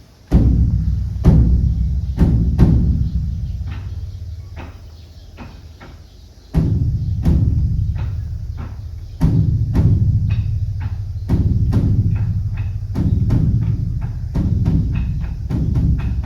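Beopgo, the large Korean Buddhist temple dharma drum, struck by a monk: deep booming strokes that ring on and die away slowly, the first few close together, then one every one to two and a half seconds, with lighter sharp taps between them.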